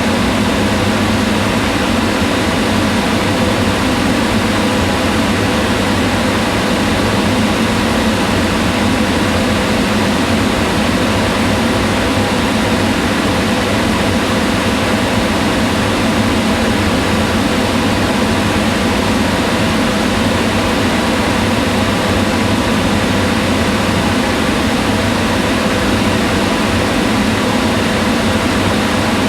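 Kitchen range hood's exhaust fan running steadily: an even whooshing rush of air with a low motor hum.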